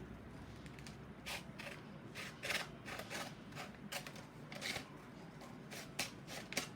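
Scissors snipping through a sheet of paper: a run of short, uneven cuts starting about a second in.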